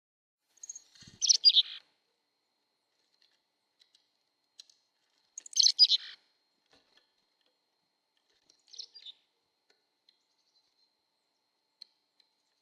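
A bird calling: two short, loud bursts of high chirps about four seconds apart, then a fainter burst a few seconds later.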